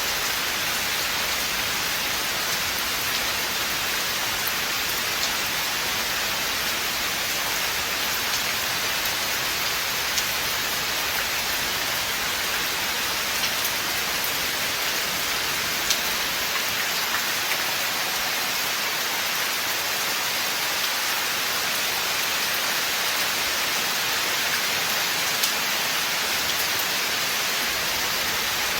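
Steady rain falling on forest foliage and ground: an even hiss with scattered individual drop ticks.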